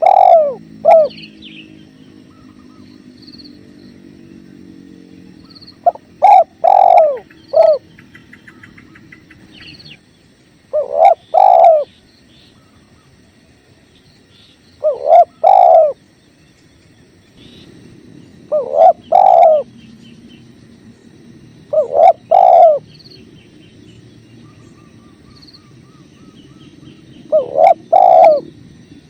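Spotted dove cooing: a phrase of three or four notes repeated about every four to five seconds, over a steady low rush of flowing water. Faint high chirps of small birds sound between the phrases.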